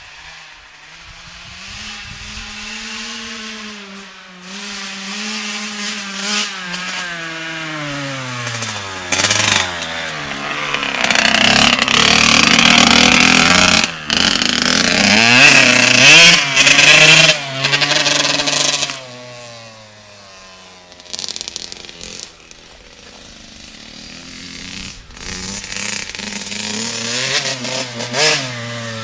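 Kawasaki 85cc two-stroke motocross bike engine revving as it is ridden, its pitch rising and falling over and over. It is loudest through the middle stretch, drops back around two-thirds of the way in, and builds again near the end.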